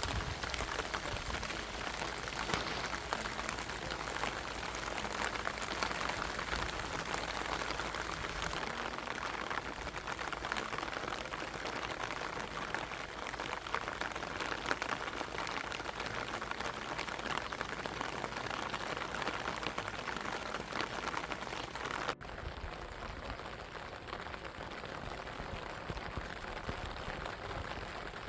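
Steady rain falling: a dense hiss of countless small drop impacts. About two-thirds of the way through the sound changes abruptly and loses its highest part.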